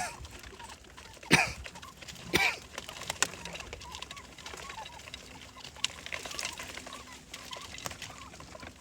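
Pigeons feeding on grain mixed with yogurt: pecking and scuffling, with two louder short scuffs about a second and a half and two and a half seconds in.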